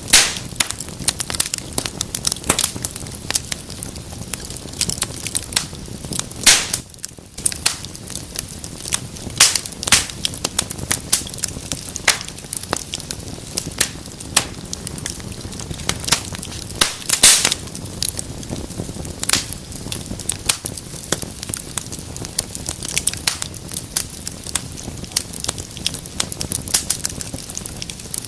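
Wood fire burning in a fireplace, crackling with many irregular snaps and pops over a low steady hiss, a few sharper pops standing out.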